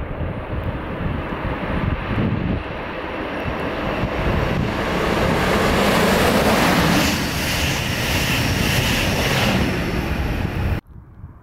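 A locomotive-hauled regional express train, a DB class 112 electric locomotive with red coaches, approaching and passing underneath: a rushing of wheels on rails builds and is loudest for a few seconds as it goes below. Wind rumbles on the microphone throughout. The sound cuts off abruptly near the end.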